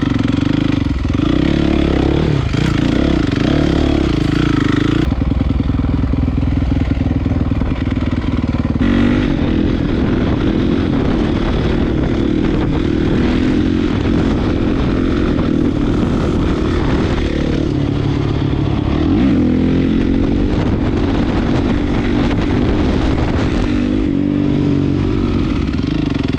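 Honda CRF450 dirt bike's single-cylinder four-stroke engine running through an HGS aftermarket exhaust while being ridden, its note rising and falling with the throttle and shifting abruptly about 5 and 9 seconds in.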